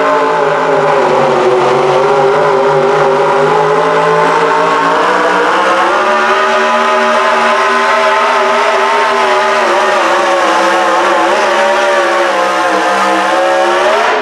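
Modified pulling garden tractor's engine running flat out under load during a pull, its pitch wavering slightly and climbing in the last couple of seconds.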